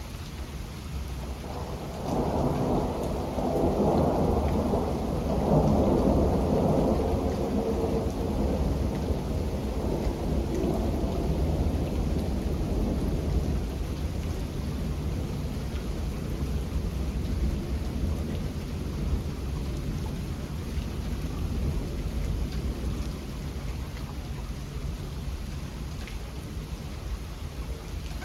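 Thunder rolls in about two seconds in over steady rain, is loudest a few seconds later, then slowly rumbles away, while the rain carries on.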